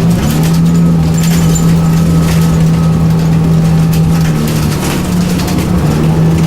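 Scania 9-litre six-cylinder turbocharged CNG bus engine running at a steady speed, a constant drone, with scattered light rattles and clicks over it.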